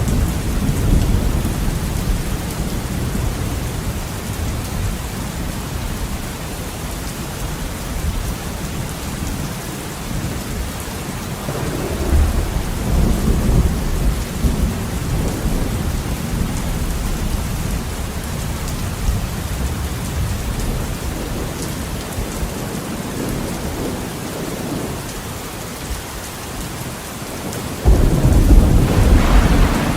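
Heavy rain falling steadily with rolling thunder rumbling underneath; a low swell of thunder about twelve seconds in, and a sudden louder thunderclap rolling into a rumble near the end.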